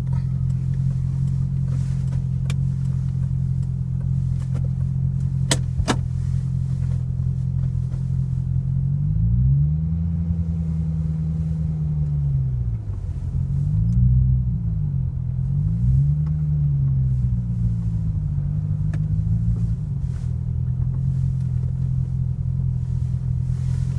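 2008 C6 Corvette's 6.2-litre LS3 V8 with SLP exhaust, heard from inside the cabin, running at a steady low note, then rising and falling in engine speed several times as the car pulls away. A couple of sharp clicks come about five to six seconds in.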